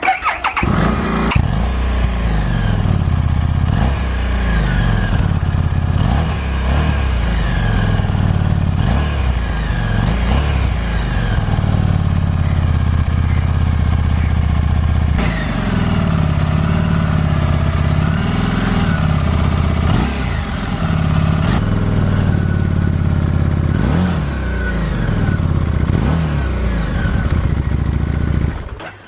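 Harley-Davidson Street 750's 749 cc V-twin through its single 2-into-1 exhaust, coming in suddenly at the start, then running with the throttle blipped up and down many times. It cuts off abruptly just before the end.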